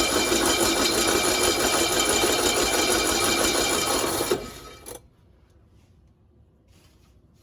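1965 Cushman Truckster engine running fast and steady after being started, then dying about four and a half seconds in and going quiet within half a second. It stalls because the carburetor is still out of adjustment.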